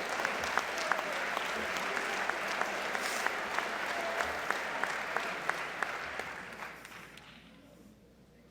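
Audience applause with many individual claps. It dies away over the last couple of seconds.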